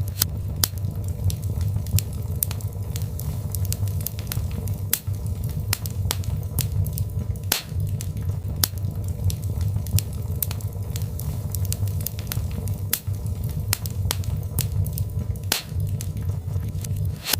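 Birchwood fire crackling in a fireplace: frequent sharp, irregular pops and snaps over a steady low rumble of the flames.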